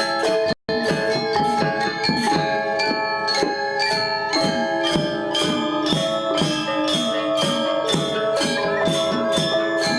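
Balinese gamelan gong ensemble playing a classical lelambatan piece: a steady stream of struck bronze metallophone and gong tones. The sound drops out for an instant about half a second in.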